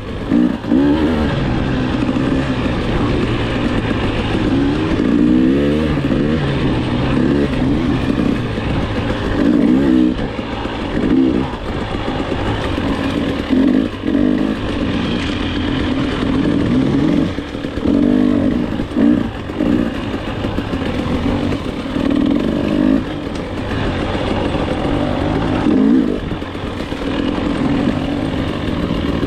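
KTM enduro dirt bike engine revving hard and falling back again and again as the bike is ridden along a trail, the pitch rising and dropping every second or two.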